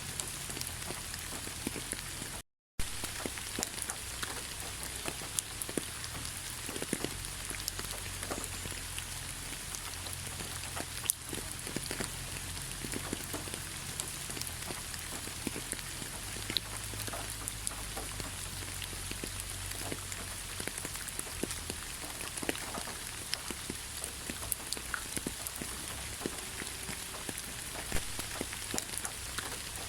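Steady rain falling in a pine forest, with many separate drops ticking through the even hiss. About two and a half seconds in, the sound cuts out to silence for a moment.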